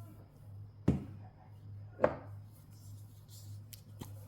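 Two sharp kitchen knocks about a second apart, the second with a short ringing tone, then a fainter knock near the end, as utensils or seasoning containers are handled while seasoning chicken.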